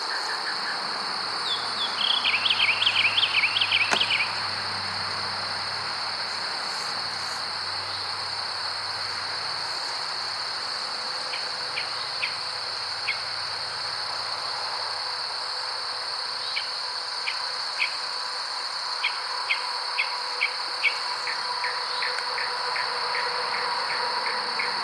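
Steady high-pitched insect buzz, with a bird singing a quick warbling trill about two seconds in and short scattered chirps through the second half.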